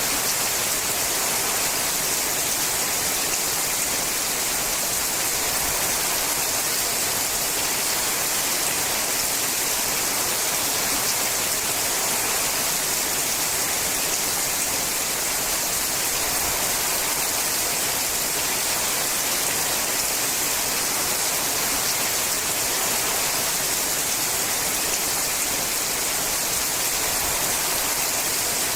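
Steady rain falling on a sheet-metal roof: an even, unbroken hiss of drops, with a few faint individual ticks.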